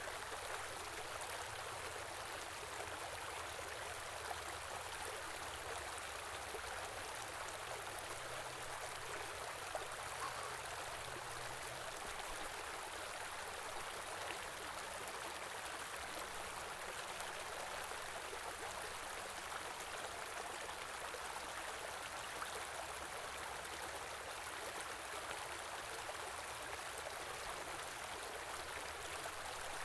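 Small river flowing steadily over stones, a continuous even rush of running water.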